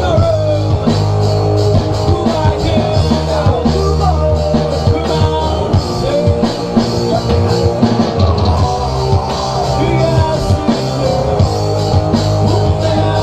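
A rock band playing live: drum kit with regular beats over sustained bass and guitars, with a wavering melodic line above them.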